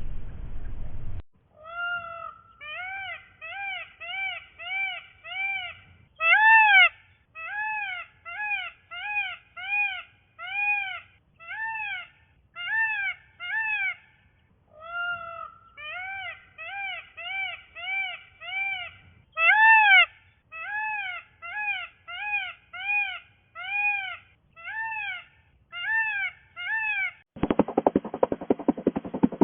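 Kitten mewing over and over: short, high, arched mews about one and a half a second, a few of them louder. A different rasping sound takes over near the end.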